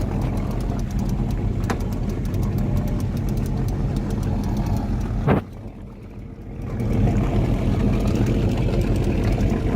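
A fishing boat's engine running steadily, a low hum under wind and water noise. About five and a half seconds in there is a sharp click, the sound falls away for a little over a second, then the same engine hum comes back.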